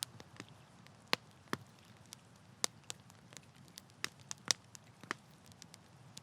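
Wood campfire crackling, with irregular sharp pops and snaps over a low steady burning rustle.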